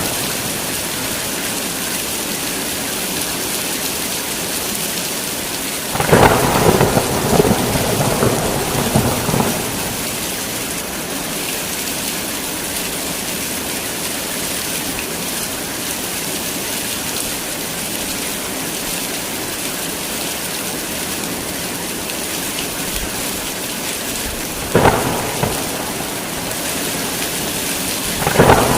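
Heavy rain falling in a steady hiss, broken by thunder: a rolling crash about six seconds in that lasts some three seconds, a shorter clap later on, and another near the end.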